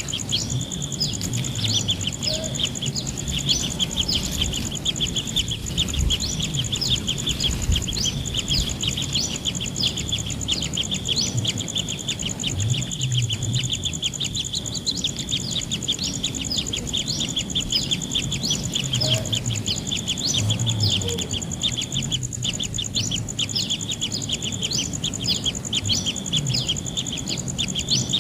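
Kingfisher chicks chirping over and over: short rising chirps, several a second, without pause. A steady high insect drone runs underneath.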